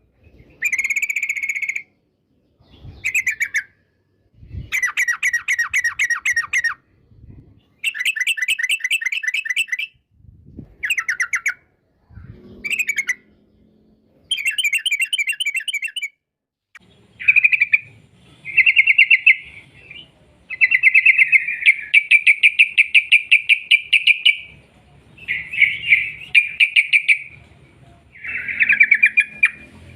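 Yellow-vented bulbul (trucukan) singing long, rapid rolling trills in bouts of a second or two, separated by short gaps. From about halfway through, the song runs almost without a break.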